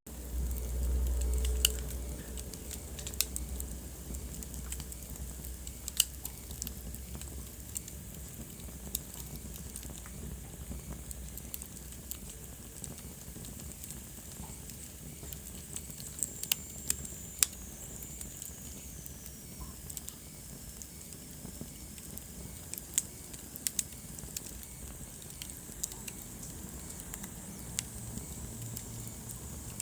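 Wood fire in a fireplace crackling, with irregular sharp pops and snaps over a steady burning hiss. A low rumble runs through the first two seconds, and a faint high whistle slides down in pitch about halfway through.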